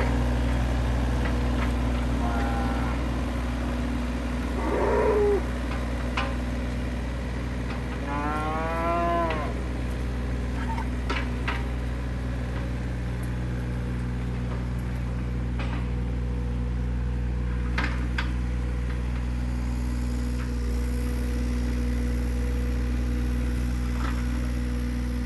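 A cow mooing twice: a short rising call about five seconds in, then a longer call that falls in pitch around eight to nine seconds in. An engine runs steadily underneath, with a few faint clicks later on.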